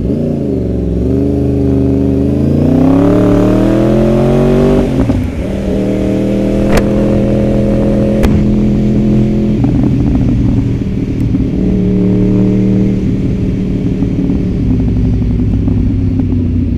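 Sport motorcycle engine heard from the rider's seat with wind noise: it climbs in pitch under acceleration, drops sharply at a gear change about five seconds in, then holds steady at cruising speed.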